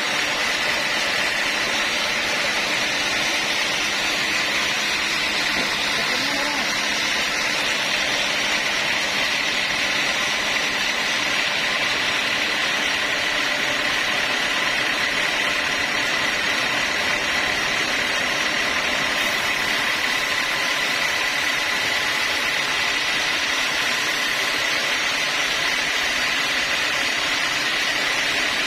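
Sawmill saw running steadily: an even, noisy machine sound with a steady high whine.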